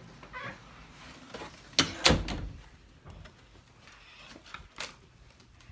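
A door banging, two loud thuds a third of a second apart about two seconds in, with a few lighter clicks around them.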